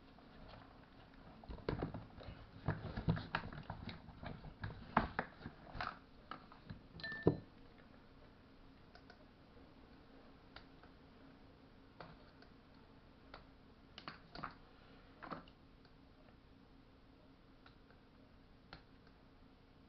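Irregular clicks and knocks of hand tools and small metal parts being handled during a chainsaw rebuild: a busy run of knocks over the first seven seconds, the loudest about seven seconds in, then only scattered single clicks.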